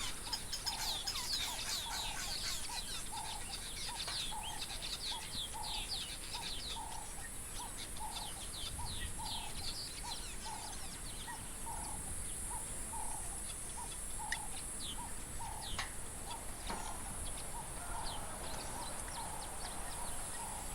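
Wild birds calling. One repeats a single clear note about twice a second for the first twelve seconds or so, over many quick high chirps from others, with a steady high hiss behind them.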